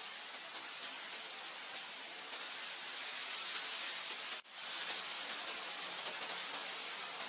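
Wind blowing across grassland, a steady even hiss, with a brief dropout about four and a half seconds in.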